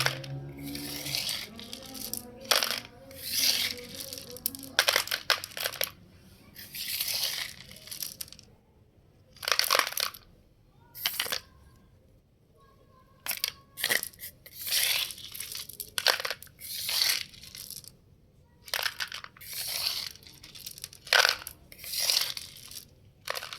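Small gravel poured and scooped into a toy truck's plastic bed: a string of short, crunchy rattles of stones, roughly one a second, with a couple of brief pauses.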